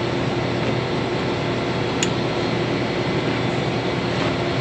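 Diesel engine of a large farm machine running steadily, with a faint click about two seconds in.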